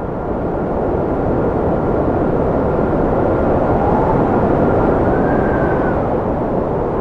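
Strong cold wind blowing steadily with a deep rush, and a thin whistle that holds one pitch, then rises and falls about two-thirds of the way through.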